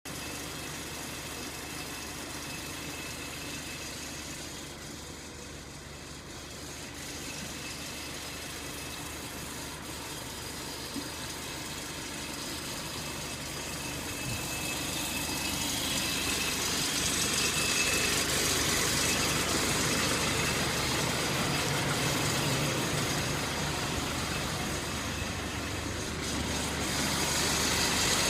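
An engine running steadily at idle, growing louder about halfway through.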